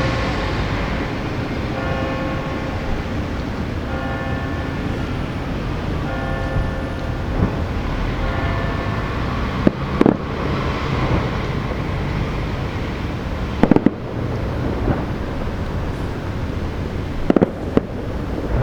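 Distant fireworks bangs in small clusters, about ten, fourteen and seventeen seconds in, over a steady background rumble. In the first half a horn toots in short blasts about every two seconds.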